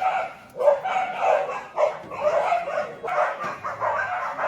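Dogs barking and yipping in an irregular run of short barks, about two or three a second.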